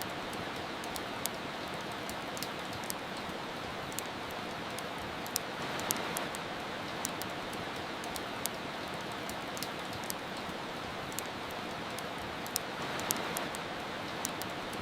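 Steady soft rain with sharp crackles of a wood fire, about one a second at irregular moments.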